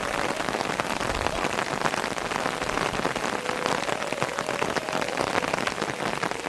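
Steady rain falling on a surface, a dense patter of many drops.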